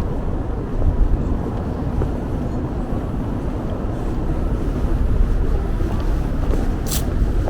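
Wind buffeting the microphone: a steady, heavy low rumble, with a brief sharp sound about seven seconds in.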